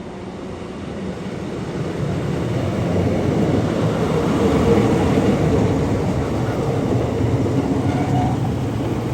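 ScotRail diesel passenger train passing on the line, its rumble and wheel noise swelling over the first few seconds and then holding steady.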